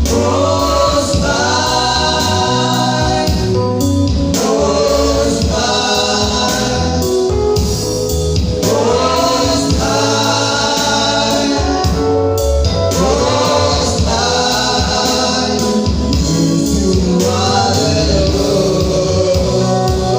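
Gospel worship song: a choir singing over a band with a steady bass and beat, a new sung phrase about every four seconds.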